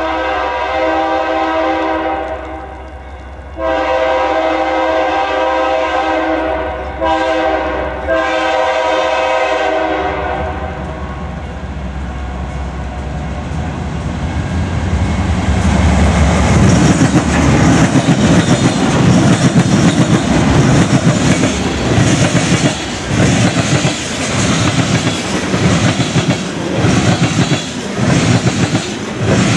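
The multi-tone air horn of a GE Dash-9-44CW freight locomotive sounds the grade-crossing signal: long, long, short, long. The train then passes close by, its engine rumble swelling about 16 seconds in, followed by the rhythmic clickety-clack of freight-car wheels over rail joints.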